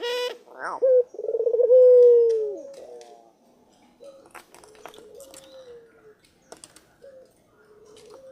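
Ringneck dove (puter) cooing: a loud coo ending in a long note that falls away about two and a half seconds in, then softer coos later, with scattered light clicks.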